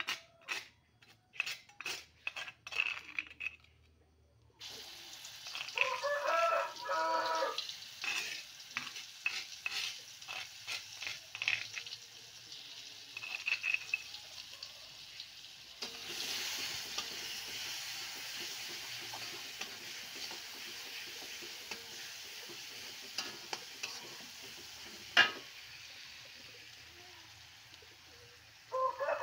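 Ground spice paste frying in hot oil in an aluminium wok while it is stirred: a steady sizzle that starts about four seconds in and grows louder about halfway, with the utensil clicking against the wok. A few sharp clicks come first, and one loud knock comes near the end.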